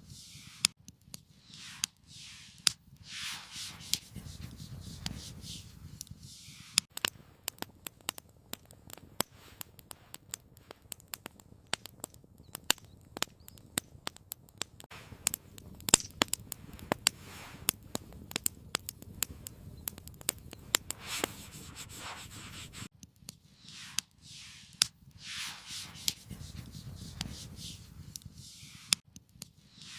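Irregular sharp pops and crackles from a campfire, dense through the middle, with repeated scraping or rubbing strokes at the start and again near the end.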